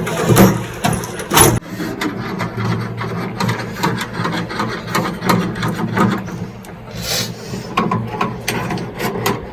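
Irregular scraping and rubbing with knocks and clicks from hands and tools working on a fitting during bathroom renovation work. A few louder scrapes stand out, near the start and about seven seconds in.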